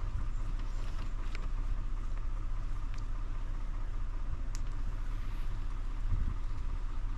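Steady low rumble of a motor vehicle driving along, with a few light clicks and rattles.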